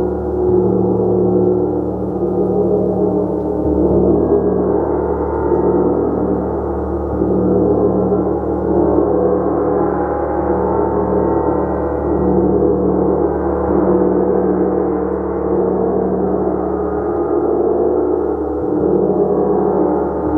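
Gong played continuously: a dense, sustained wash of many overlapping tones, swelling and pulsing, with a throbbing low hum.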